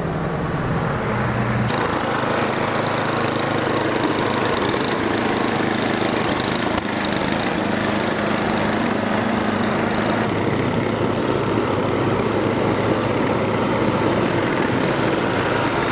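An engine running steadily under a thick hiss of noise, which grows brighter about two seconds in.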